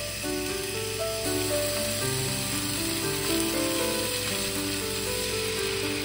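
Sliced meat and green onion sizzling as they stir-fry in a nonstick frying pan, stirred with chopsticks. Background music with held notes plays over it.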